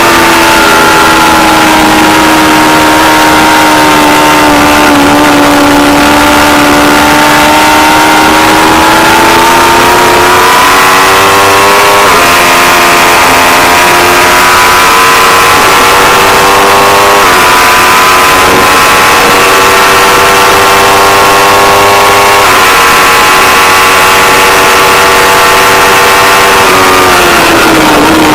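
Aprilia Tuono V4 Factory's 1100 cc V4 engine under way at speed. Its note dips, then climbs, changing up through the gears about three times, holds at high revs, and falls away near the end as the bike slows. The sound is loud and harsh from the onboard camera's poor recording.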